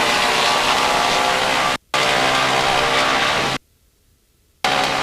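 Drone of a B-29 Superfortress's four Wright R-3350 radial engines at high power for takeoff, heard through the crew intercom. The sound drops out for an instant just before two seconds in, cuts off abruptly about three and a half seconds in, and comes back briefly near the end as the intercom mic keys in and out.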